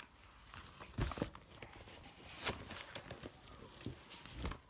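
Faint rustling and a few light knocks of a picture book being handled as its pages are turned.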